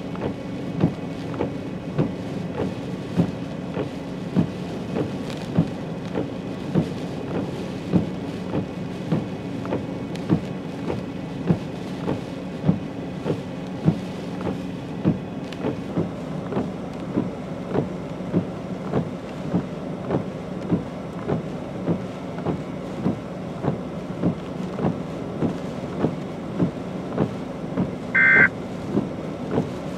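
Storm rain and wind over a steady low vehicle hum, with a regular click about every 0.8 seconds. A short high beep sounds near the end.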